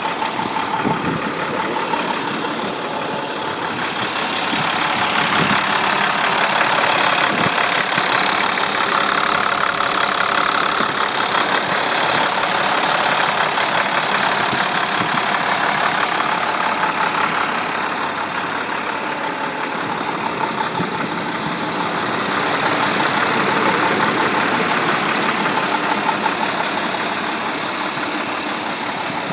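A 2012 IC CE school bus's MaxxForce DT inline-six diesel idling steadily, a couple of minutes after a cold start.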